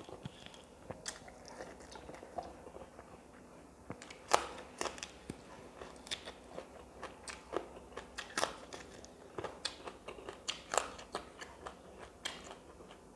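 Close-miked chewing of rice and fish, with sharp, irregular crunches and wet mouth smacks, louder and more frequent from about four seconds in.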